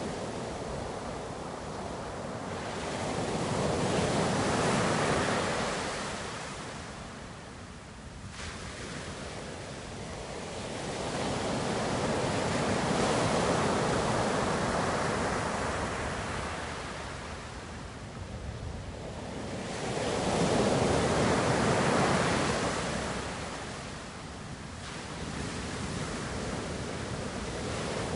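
Ocean waves breaking and washing up the shore in slow swells, rising to three loud peaks about eight seconds apart and falling back between them.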